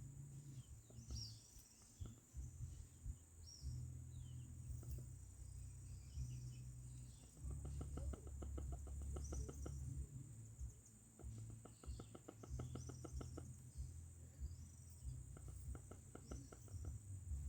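Faint rural ambience: small birds chirping and insects trilling, with bursts of rapid pulsing twice in the middle and a low rumble of wind on the microphone.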